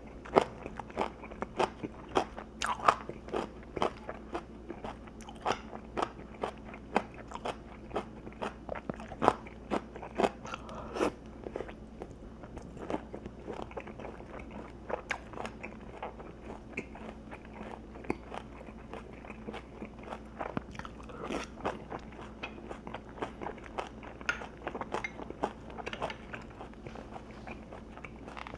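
A person chewing crisp, crunchy food close to the microphone: irregular sharp crunches, a couple a second, thinning out somewhat in the second half.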